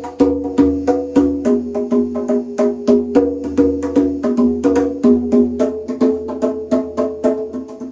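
Pitched drums being played in a quick, steady run of struck notes, about five strokes a second, with the pitch moving between a few notes every half second or so as a warm-up pattern.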